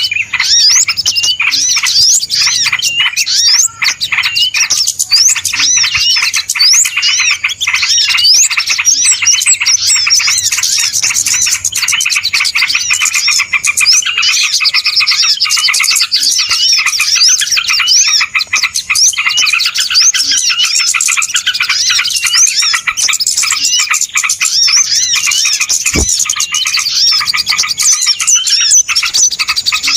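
A loud, dense chorus of many small birds chirping and twittering over one another without a break, played as a bird-lure call to draw in wild small birds.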